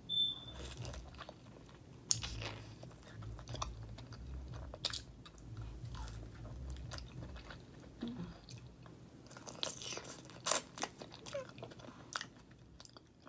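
Close-miked chewing of baked lobster tail meat: wet mouth clicks and smacks, bites and swallows, repeating irregularly. A brief high beep sounds at the very start.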